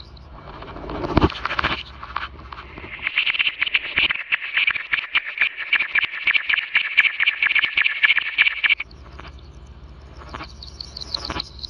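Designed creature sound for a giant monster bat: a brief loud swell, then a fast, high-pitched rattling chatter of clicks lasting about six seconds that cuts off suddenly, over a low rumble.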